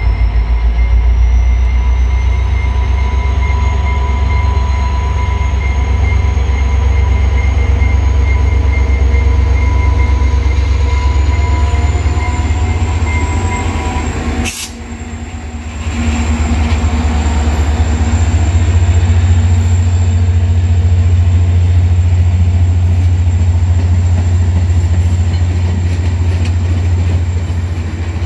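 VIA Rail F40PH diesel-electric locomotive passing close, its engine running with a steady deep rumble and a thin high whine, followed by passenger coaches rolling by on the rails. The sound breaks off briefly about halfway through, then the rumble returns.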